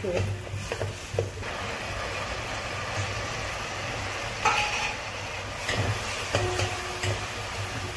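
Shallots, dried chillies, curry leaves and chopped tomato sizzling in oil in a stainless steel pot, stirred with a metal spoon that scrapes against the pot a few times. This is the tempering stage of a rasam, before the liquid goes in.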